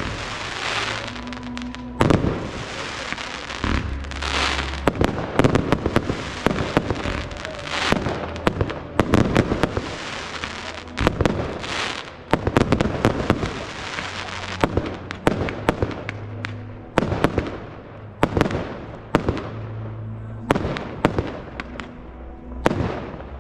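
Aerial fireworks display: shells bursting in rapid succession, many sharp bangs with crackling in between.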